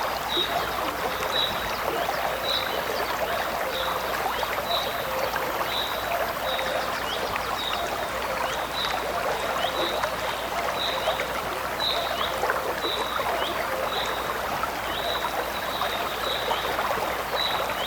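Flowing river water, a steady rushing, with a short high chirp repeating about once a second over it.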